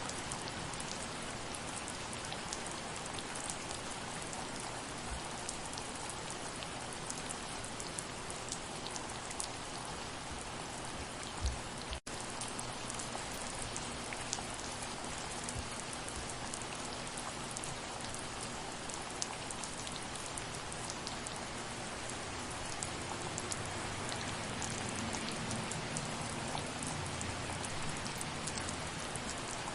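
Steady soft rain, an even hiss dotted with the ticks of individual drops landing. About twelve seconds in there is a short low knock, then the sound cuts out for an instant.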